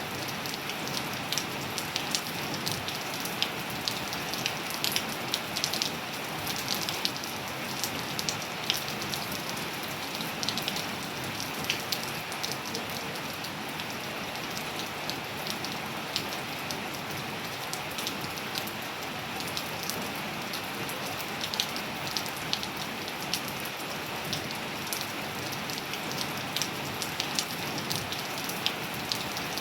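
Steady rain falling, with a continuous hiss and many separate sharp drop splashes and ticks on surfaces.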